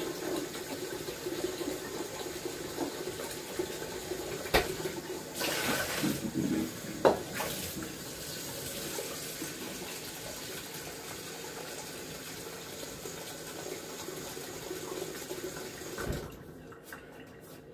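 Kitchen tap running steadily into a container, with a few knocks and clatters of handling. The water cuts off suddenly with a click near the end as the tap is shut.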